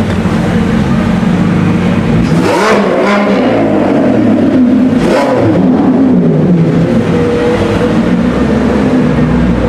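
Supercar engines accelerating hard and revving. The pitch climbs about two seconds in and again around five seconds, then falls away.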